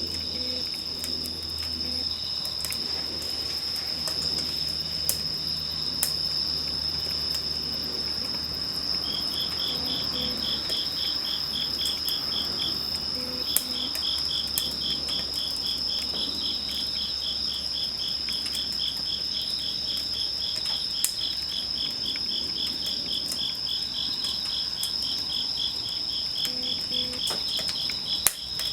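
Crickets and other night insects calling: one high, steady trill, joined about a third of the way in by a rhythmic chirp of about three pulses a second. A few sharp, isolated pops, typical of a wood fire crackling, come through now and then.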